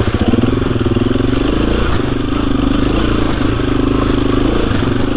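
KTM 350 EXC-F's single-cylinder four-stroke engine running under load at mostly steady revs as the dirt bike pushes through deep snow.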